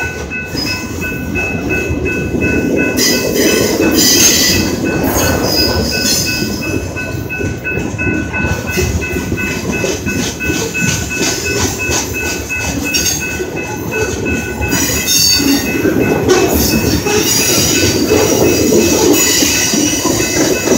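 Freight train cars rolling past at close range, a continuous low rumble of steel wheels on rail with scattered clatter, and thin steady high tones over it.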